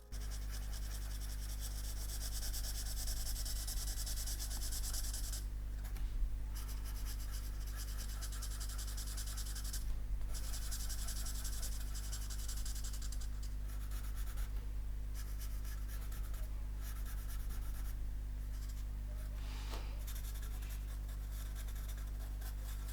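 Nib of a dip pen (G pen) scratching across paper in continuous inking strokes, with short breaks where the pen lifts, over a steady low hum.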